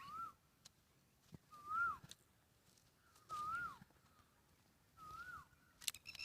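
An animal calling over and over: a short whistled note that rises and then falls, repeated about every second and a half. A few faint clicks come between the calls.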